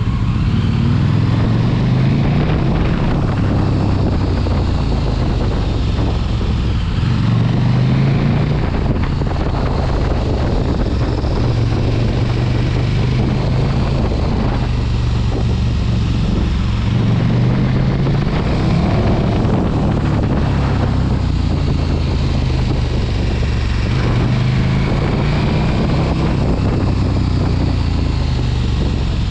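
Large sport motorcycle engine under way. Its note repeatedly climbs and drops as the rider accelerates and shifts, with wind rushing over the microphone.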